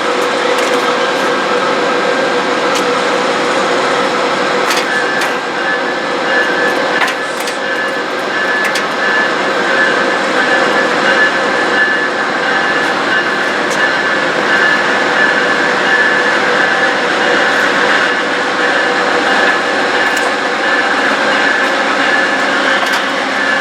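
Train rolling past close by: a steady loud rail noise with scattered sharp clicks, and a high steady tone that comes in about five seconds in.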